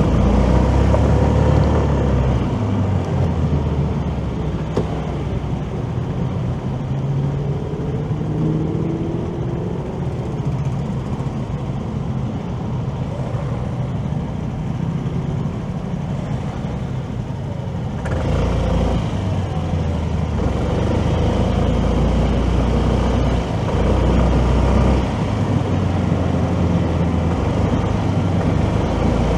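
Road traffic noise heard from a moving motorcycle: engines running with a steady low rumble, and engine pitch rising and falling in places. The rumble grows louder about eighteen seconds in.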